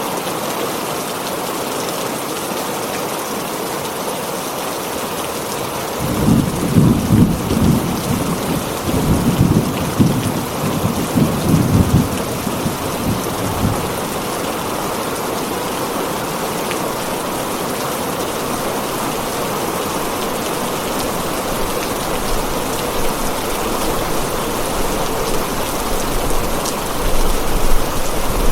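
Heavy rain falling steadily on a tin roof, with a roll of thunder rumbling in several surges for about eight seconds, starting some six seconds in.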